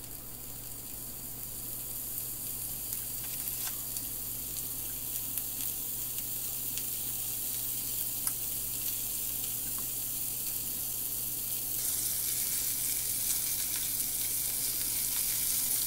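Peeled tiger prawns sizzling in hot olive oil in a frying pan over high heat. The sizzle slowly grows louder, with a few faint clicks, and rises further in the last few seconds as a fork turns the prawns.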